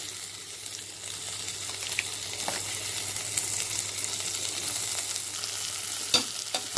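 Sliced onions, whole spices and ginger-garlic paste sizzling in hot oil and ghee in a kadai: a steady high hiss with a few faint clicks and a sharper knock about six seconds in.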